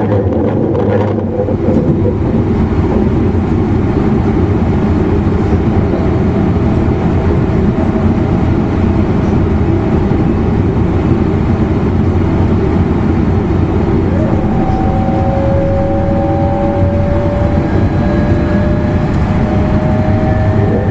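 Running noise inside an E259 series Narita Express motor car (MoHa E259), a steady rumble of the train at speed. About fourteen seconds in, a whine from the traction motors sets in and climbs slowly in pitch as the train picks up speed.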